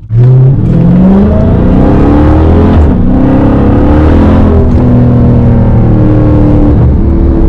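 Straight-piped Dodge Hellcat's supercharged 6.2-litre V8 under hard acceleration, loud, its pitch climbing for the first few seconds and dropping sharply about three seconds in as it shifts gear, then climbing again and settling.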